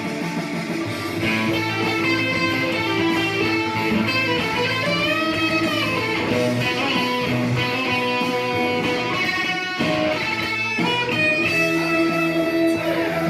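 Electric guitar playing a rock lead solo, with held notes and string bends that swoop up and back down, over a backing of rhythm guitar and bass. The music drops out briefly around two-thirds of the way through.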